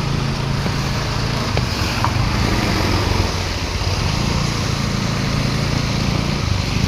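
A motor vehicle's engine running steadily while under way, with a continuous rush of road and wind noise.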